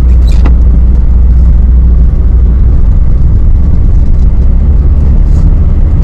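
1991 Volkswagen Vanagon Syncro driving on an icy, snow-covered road: a loud, steady low rumble of engine and road noise, with a brief click about half a second in.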